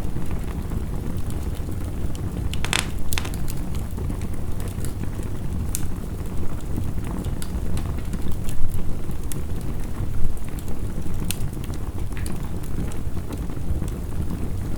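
Wood fire crackling with scattered sharp pops, a louder cluster of pops a little under three seconds in, over the steady rumble of heavy rain.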